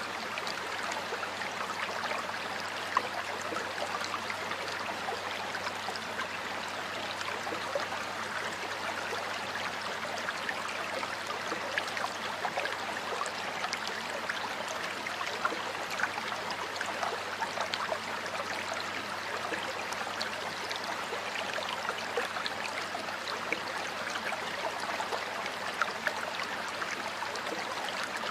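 Stream water flowing steadily: a continuous rush with many small splashes and trickles.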